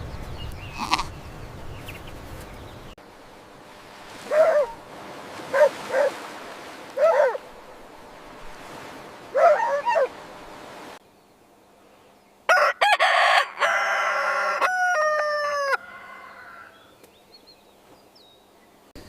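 Chicken calls: about five short clucks, then a rooster crowing once, a long cock-a-doodle-doo of about three seconds that falls in pitch at the end.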